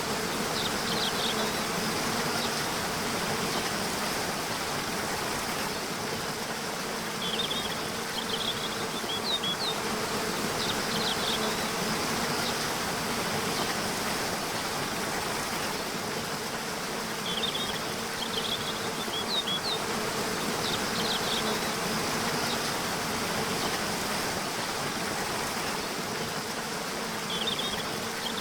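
Waterfall rushing steadily, under a steady low hum, with short phrases of high bird chirps coming back about every ten seconds.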